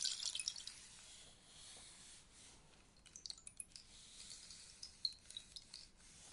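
Rainstick's pellets trickling down inside the tube: a dense rattling patter fading out over the first second, then sparse faint ticks and clinks as the last grains fall.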